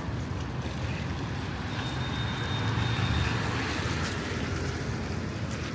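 Street traffic: a motor vehicle's engine running close by, a steady low rumble that swells about three seconds in, with a faint thin high whine briefly in the middle.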